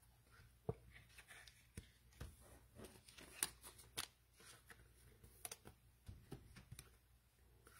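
Faint clicks and light rustling of trading cards being handled and sorted, a scatter of small ticks and slides with a louder tap about three and four seconds in.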